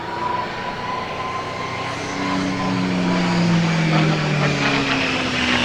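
P-51D Mustang's Merlin V-12 engine and propeller growing louder as the fighter flies by, its pitch falling as it passes.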